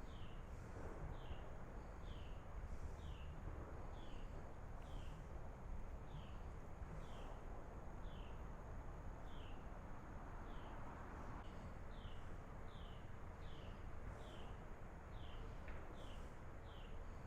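Outdoor quiet with a steady series of short, high chirps, each falling in pitch, repeating about one and a half times a second, over a low, even rumble.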